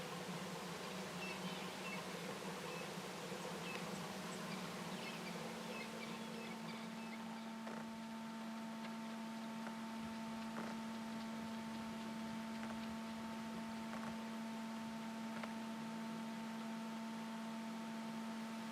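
Outdoor ambience with a steady low hum, joined by higher steady tones about six seconds in, and a few faint high chirps in the first few seconds.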